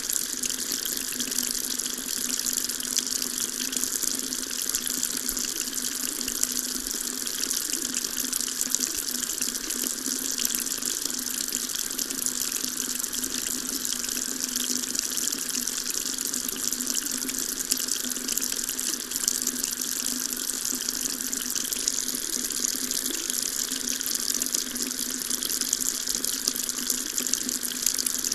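Water tap running steadily, a stream of water splashing into a sink.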